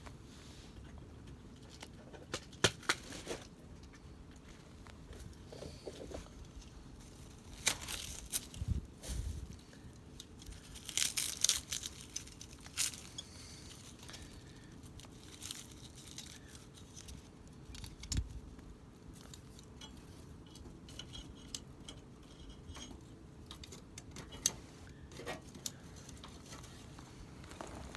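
Campfire of wood burning in a fire grill, crackling with irregular sharp pops and snaps over a low steady background, a busier flurry of snaps about eleven seconds in.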